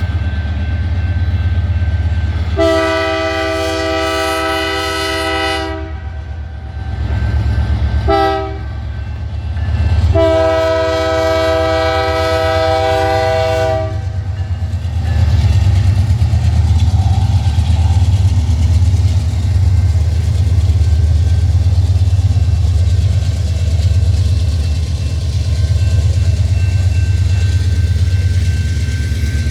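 Freight train's locomotive horn sounds a long blast, a short one, then another long one, each a chord of several tones. Under it the passing train rumbles steadily, with rhythmic clacking from its wheels on the rails.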